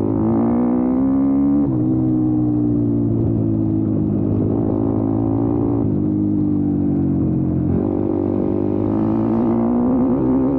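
YCF Bigy 190 pit bike's single-cylinder four-stroke engine running under throttle, its pitch climbing as it revs and falling back sharply three times before climbing again.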